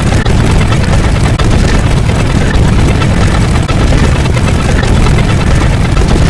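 Loud, steady rumbling noise, dense and heavy in the low end, with no clear rhythm or pitch.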